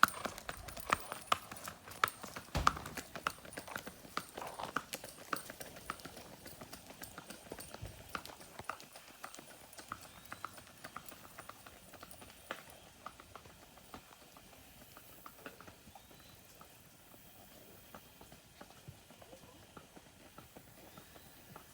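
Hoofbeats of a gaited paint mare ridden along a road, a quick run of sharp clip-clops that grow steadily fainter as she moves away.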